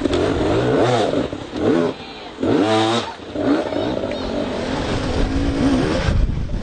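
Motocross bike engines revving hard, the pitch climbing and dropping with the throttle, with one sharp rev about halfway through.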